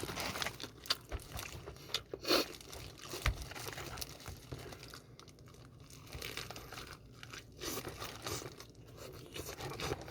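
Someone eating crispy fried chicken, BHC Puringkle chicken: irregular crunching bites and chewing, with some crinkling, loudest about two seconds in.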